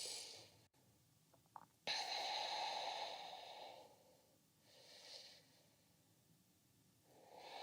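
A person breathing audibly and slowly: a long breath lasting about two seconds, then a faint short one, and another breath near the end, with silence between.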